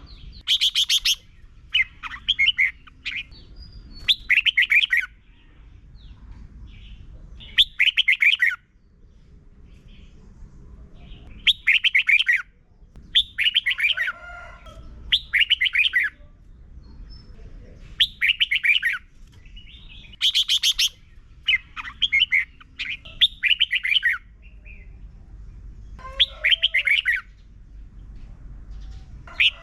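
Red-whiskered bulbul singing: short, bright, warbling phrases repeated every second or two, with a few pauses of a couple of seconds between bouts.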